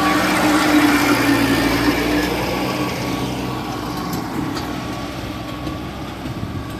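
Mahindra Arjun tractor's diesel engine under load, hauling a soil-laden trolley, running steadily; it is loudest in the first couple of seconds and then gradually fades.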